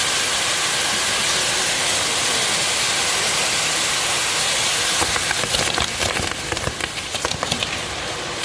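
Fireworks hissing steadily. From about five seconds in comes a rapid, irregular run of sharp cracks and bangs.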